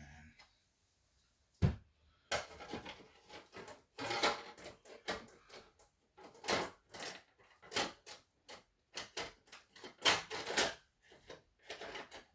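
Hard objects being handled: an irregular run of clatters, knocks and scrapes, with a sharp knock about a second and a half in and the loudest clatter near the end.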